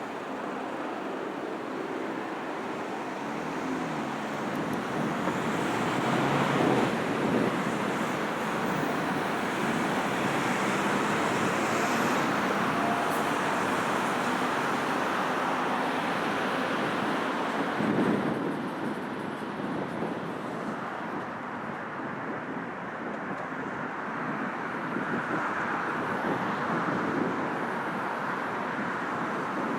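Heavy road traffic passing steadily on a multi-lane city road, a continuous rush of engines and tyres that swells as individual vehicles go by, loudest about a fifth of the way in and again a little past halfway.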